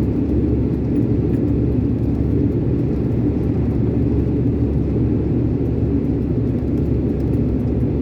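Iveco concrete mixer lorry's diesel engine running with a steady low rumble.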